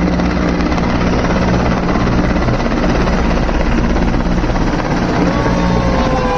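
Formation of Mi-17 twin-turbine helicopters flying over, a steady rotor beat with engine noise. About five seconds in, a whine comes in and slowly falls in pitch.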